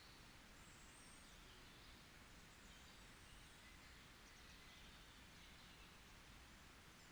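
Very quiet forest ambience: a steady faint hiss with a few faint, brief bird chirps, one high one about a second in and a few more around the middle.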